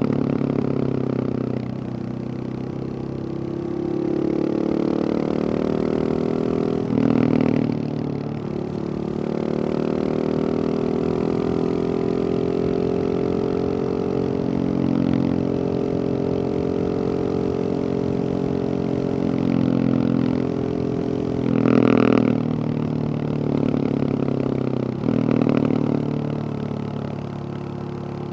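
Husqvarna 701 supermoto's single-cylinder engine through a Wings aftermarket exhaust, running with the revs slowly rising and falling. There are short louder blips of throttle about 7 seconds in and twice more near the end.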